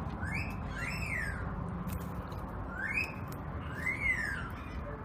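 A bird calling repeatedly: pairs of short whistled notes, each rising and then falling in pitch, about every two and a half seconds, over a steady low background rumble.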